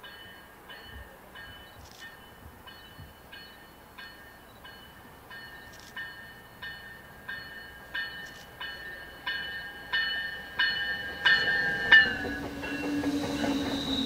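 MBTA commuter rail train arriving cab-car first, its bell ringing about one and a half strokes a second and growing louder as it nears. The bell stops about twelve seconds in as the bilevel coaches run past with wheel rumble and a high, steady wheel squeal.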